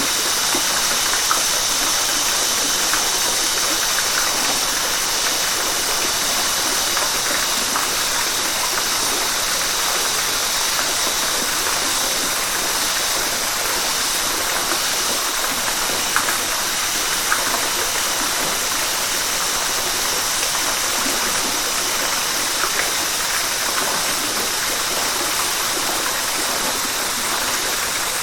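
Steady rush of flowing river water, an even hiss with a couple of small splashes about halfway through.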